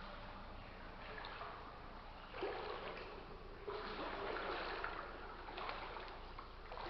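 Water sloshing and swishing as someone wades through knee-deep floodwater, getting louder about two and a half seconds in.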